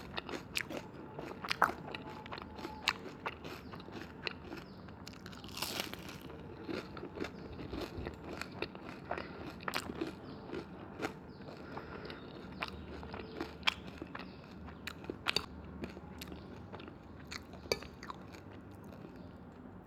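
Close-miked eating sounds: steady chewing and crunching, with frequent irregular sharp mouth clicks.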